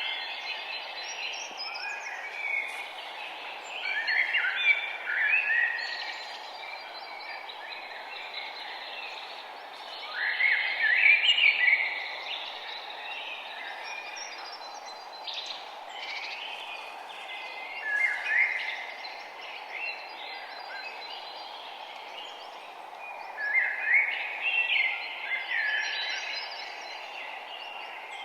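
Songbirds singing in short bursts of phrases, several times, over a steady, low background hiss.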